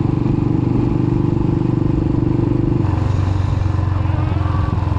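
Royal Enfield Thunderbird 350X's single-cylinder engine running steadily while riding, with wind and road noise; its note changes about three seconds in.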